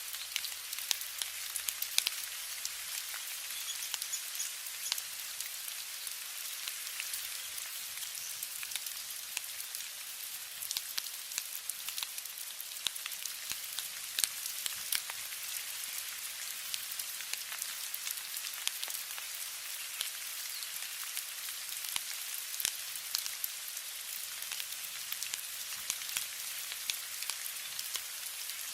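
Steady rainfall: a continuous hiss of rain, dotted with many close, sharp drop patters.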